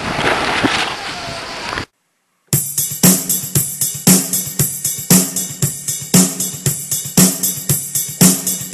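Strong wind buffeting the camera microphone, cut off abruptly about two seconds in. After half a second of silence, a rock-style music track with a drum kit starts, beating about twice a second.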